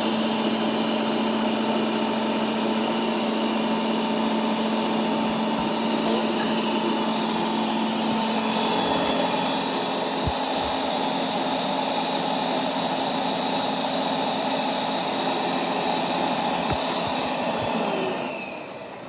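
Roborock Q10V+ robot vacuum running, a steady suction-motor whine with a few light knocks. Near the end it winds down and stops as it finishes its cleaning run.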